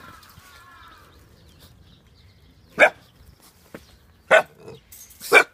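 Akita puppies barking: three short, sharp barks a second or so apart, the last the loudest, after a faint whine that fades out in the first second.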